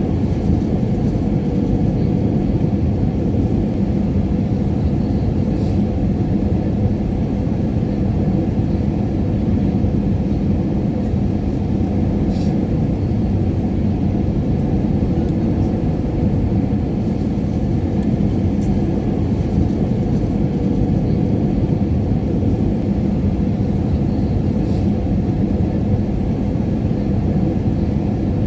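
Airliner cabin noise in flight: a steady low rumble of engine and airflow with a faint constant hum, unchanging throughout.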